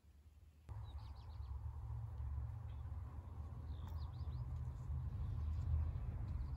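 Small birds chirping in two short runs, about a second in and again about four seconds in, over a steady low rumble that starts suddenly just before the first chirps.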